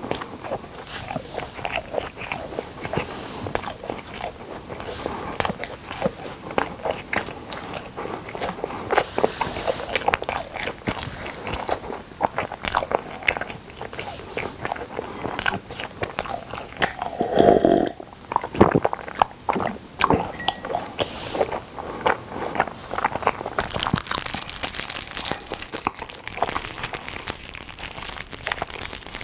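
Close-miked chewing and crunching of chocolate-coated ice cream, full of quick wet mouth clicks, with one louder, duller sound a little past halfway. Near the end, a foil wrapper starts crinkling as the next piece is unwrapped.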